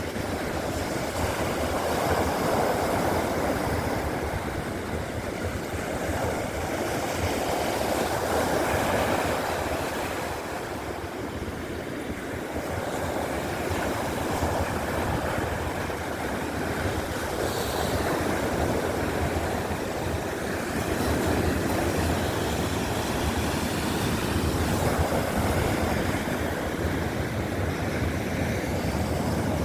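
Baltic Sea surf washing onto the beach: a steady rushing noise that swells and falls back every few seconds.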